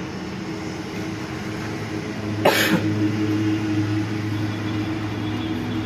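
An engine running steadily with a low hum, and a short, sharp cough-like burst about two and a half seconds in.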